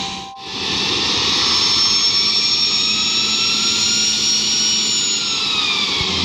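Embraer Legacy 600 business jet's Rolls-Royce AE 3007 turbofan engines running: a steady rush with high whining tones that sink slightly in pitch near the end.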